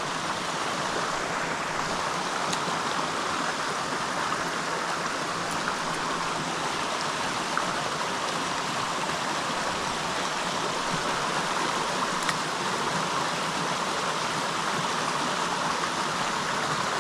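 Creek water flowing, a steady rushing with no break.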